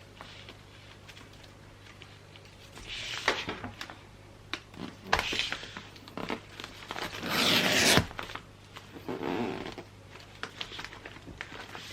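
Gift-wrapping sounds: several short rasping strips of sound, the longest and loudest about a second long around seven seconds in, among light paper rustles and small taps.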